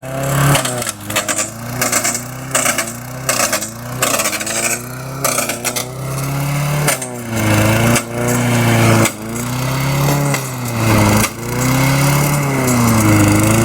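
Small lawn mower engine running hard, its pitch repeatedly surging and sagging as the speed rises and falls, with a few brief dips. Over the first five seconds a rapid series of sharp knocks cuts through it.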